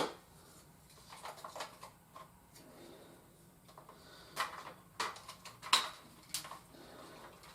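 Scattered light clicks and knocks of small hard objects being handled, with a few sharper ones between about four and six and a half seconds in.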